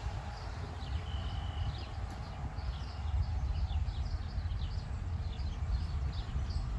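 Birds chirping in quick, repeated short calls over a steady low rumble.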